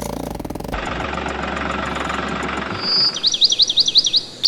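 A steady engine-like running noise for about three seconds, then a rapid series of high, swooping chirps at about five a second.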